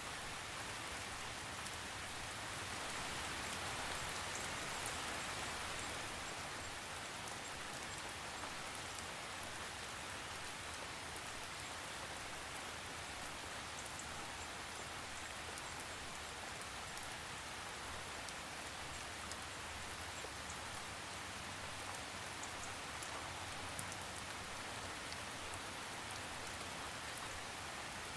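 Steady rainfall, with scattered drops ticking on a surface and no thunder. It swells slightly a few seconds in and then holds even.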